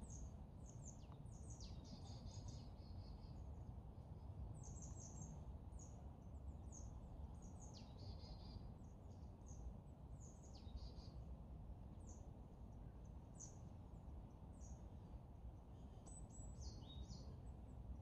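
Small songbirds giving many short, high, thin calls, several falling quickly in pitch, scattered irregularly among one another, over a steady low background rumble.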